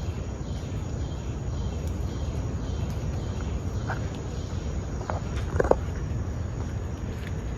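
Tropical rainforest ambience: insects chirping in a steady, evenly repeating pattern over a low rumble, with a few short chirps and one brief sharp sound a little past the middle.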